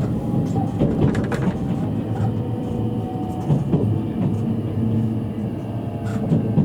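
Cabin sound of a JR East E653 series electric train under way: a steady rumble of wheels on the rails with a few sharp clicks, and faint steady motor tones.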